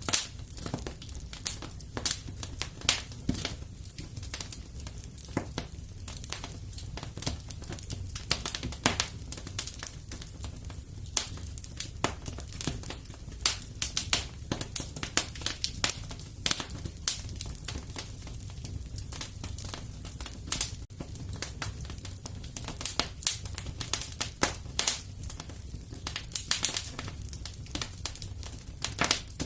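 Fire in a fireplace crackling, with frequent irregular sharp pops over a steady low rumble.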